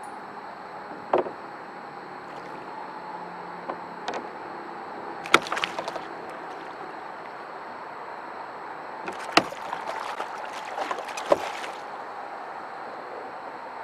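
A northern pike thrashing and splashing beside a kayak as it is landed, with sharp knocks against the boat, over a steady hiss. A single knock comes about a second in, then two bursts of splashing and knocking, around five seconds in and from about nine to eleven seconds.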